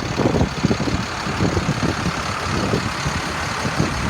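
International DT466 diesel engine of a dump truck idling steadily, with the PTO engaged to drive the dump bed's hydraulics.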